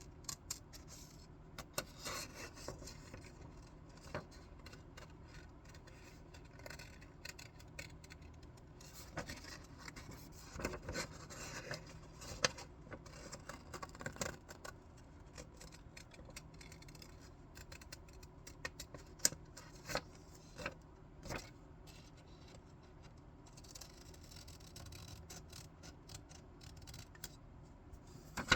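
Scissors cutting paper in short, irregular snips, some louder than others, with softer paper handling between the cuts.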